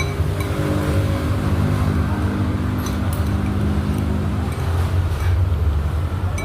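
Road traffic: a motor vehicle's engine running close by with a steady low rumble, one engine note standing out for the first few seconds.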